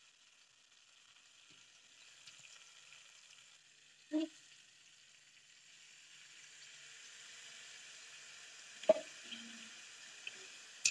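Stuffed brinjals frying in oil in a kadhai, a faint steady sizzle that grows a little louder from about halfway. Two sharp knocks come about four and nine seconds in, the second the loudest.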